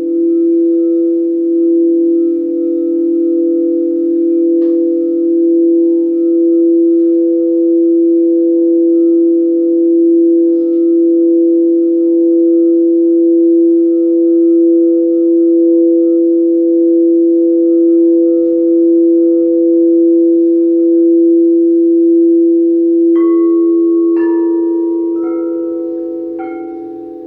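Crystal quartz singing bowls holding two steady, overlapping tones that swell and pulse slowly. Near the end four bowls are struck one after another, each ringing a brighter, higher note as the held hum fades.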